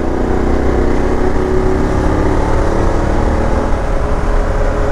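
BMW F 750 GS parallel-twin engine running as the bike rides along, over a heavy rush of wind noise.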